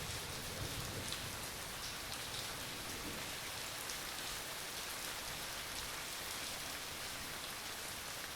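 Steady rain falling, an even hiss with faint scattered drop ticks, with no thunder in it.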